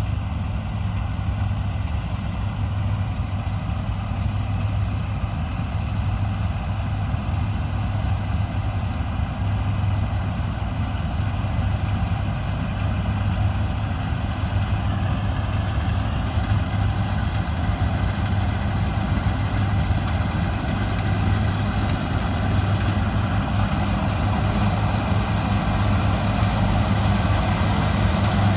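Large diesel engine of harvest machinery running steadily with a deep, even hum, growing gradually louder over the stretch.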